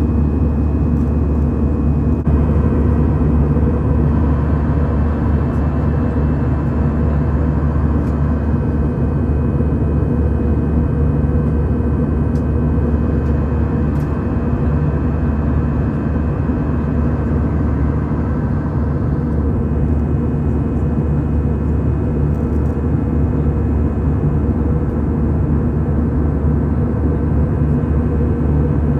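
Airliner cabin noise: a steady, loud low drone of engines and airflow, with faint steady whining tones over it.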